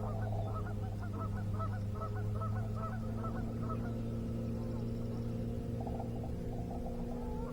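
Geese honking in a quick run of short calls for the first few seconds and again more faintly near the end, over a steady low motor hum.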